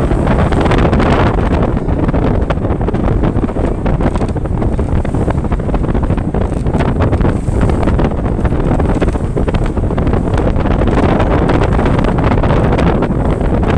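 Wind buffeting the microphone aboard a passenger ferry under way, over the steady rushing noise of the boat moving through the water.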